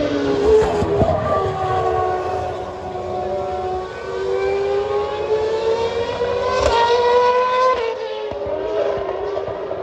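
Car engines running at speed, several notes overlapping, their pitch climbing slowly and dropping sharply near the end, as with gear changes.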